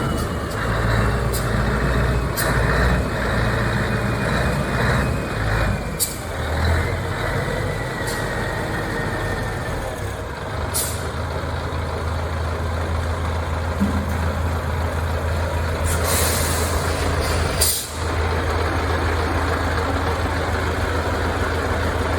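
Scania 143 truck's V8 diesel engine running, with a faint high whine falling slowly in pitch as it settles to a steady idle. About two-thirds of the way through there is a sharp air-brake hiss with a couple of clicks.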